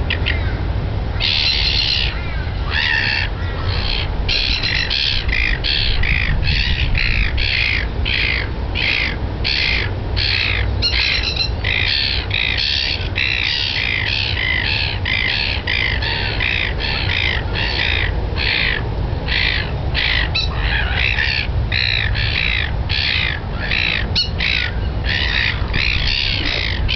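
A bird giving harsh, squawking calls over and over, about two a second, over a steady low rumble.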